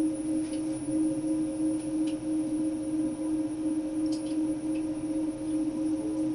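Steady electrical hum from a KONE KDS 300 tram elevator's drive, one low tone held unchanged with a faint high whine above it and a few light ticks.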